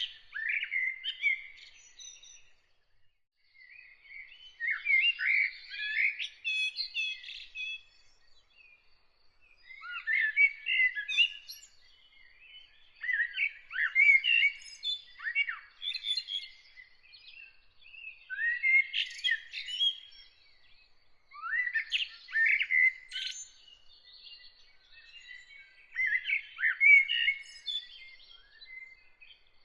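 Eurasian blackbird singing: a series of warbled phrases, each two to three seconds long, with short pauses between them. A faint, evenly repeated high note runs underneath throughout.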